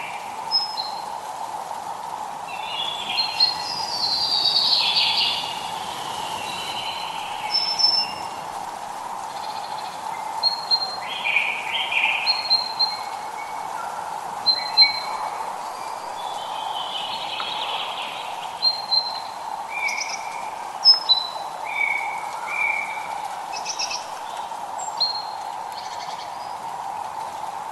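Several birds chirping and singing, many short high notes and brief trills one after another, over a steady hiss of drizzle.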